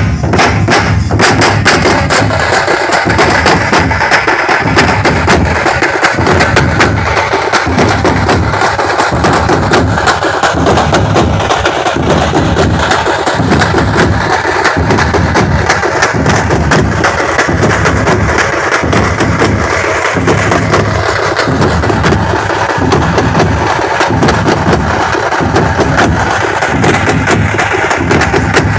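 Festival drum ensemble playing loud, dense, fast drumming, with sharp stick strokes over a deep beat about once a second.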